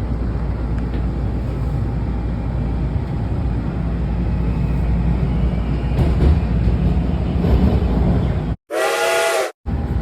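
Washington Metro railcar running, a steady low rumble of the train in motion. Near the end the rumble cuts out abruptly and a loud whistle-like tone about a second long sounds, with a moment of dead silence either side.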